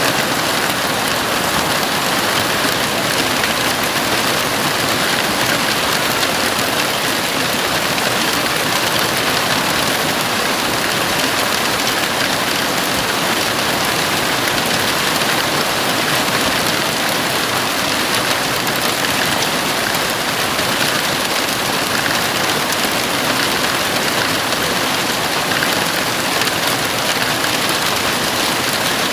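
Heavy rain falling on a house roof: a dense, even hiss of rain that holds steady throughout.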